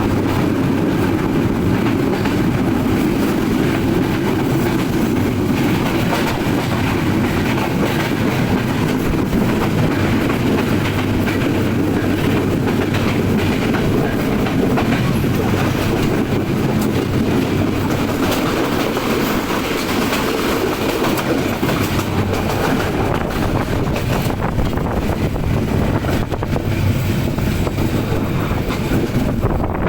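Nilsagar Express passenger train running on the rails: a steady, loud running noise with repeated clicking of wheels over rail joints.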